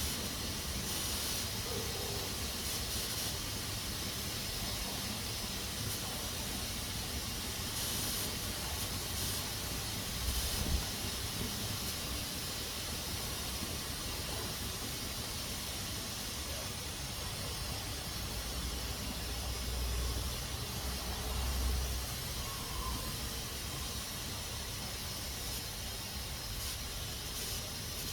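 Pressure cooker hissing steadily as steam escapes from its valve. A few brief low rumbles come through underneath, once about ten seconds in and again around twenty seconds.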